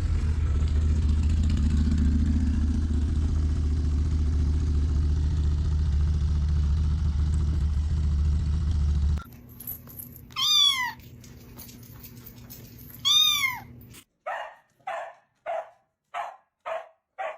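A steady low rumble for about nine seconds that stops abruptly, then a cat meowing twice, then a run of short animal calls repeated about twice a second.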